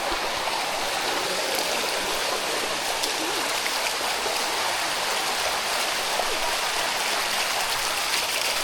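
Water of a limestone waterfall rushing steadily over the rock.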